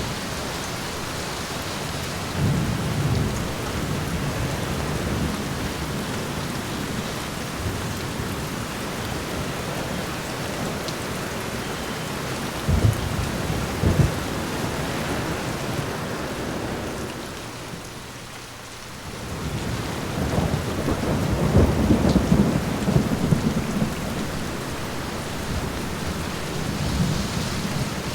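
Steady rain on a window with thunder: two sharp low claps about halfway through, and a long rolling rumble after a brief lull in the last third.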